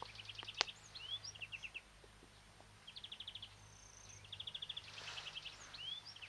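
Small birds singing, with repeated quick trills and short rising chirps. A single sharp click comes about half a second in.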